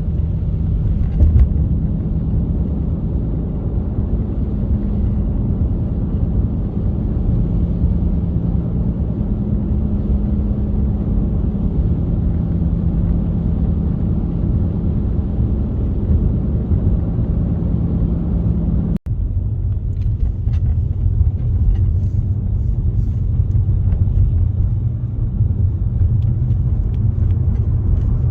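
Car being driven: a steady low engine and road rumble with a faint hum. It is briefly cut about two-thirds of the way through, then carries on with faint scattered ticks.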